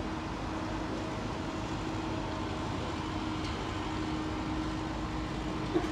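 Miniature railway train running steadily, a continuous rumble with a steady engine hum, and a brief knock near the end.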